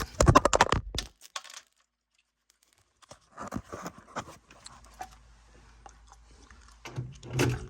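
Work noise from taking a furnace apart: a loud burst of rapid crackling and tearing for about a second, then, after a pause, scattered small clicks and rattles of metal parts, and a knock near the end.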